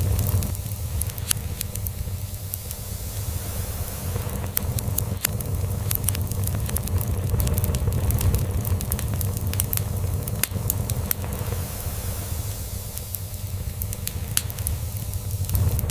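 Crackling log fire, with frequent sharp pops and snaps scattered irregularly. Underneath runs a low, continuous cat purr that swells and fades slowly.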